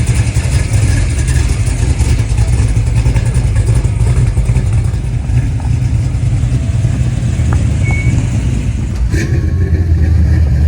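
Car engine running with a steady low rumble and road noise. About nine seconds in there is a sharp click, and the rumble turns lower and steadier.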